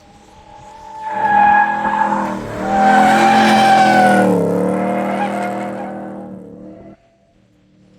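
A drift car's engine held at high revs as it slides past, with tyres skidding on the tarmac. It swells to its loudest in the middle, the revs dip and fade, and the sound cuts off abruptly near the end.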